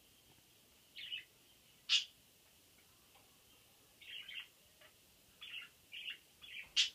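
Pet budgerigars chirping in short, scattered calls about once a second, with a louder, sharper chirp about two seconds in and another near the end.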